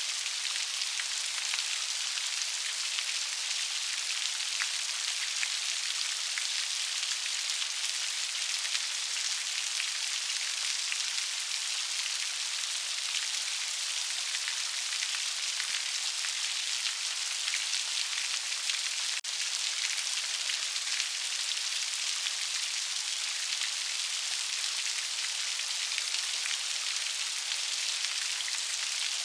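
Steady rain: a dense, even patter of raindrops with fine drop clicks throughout, and a momentary dip in level about two-thirds of the way through.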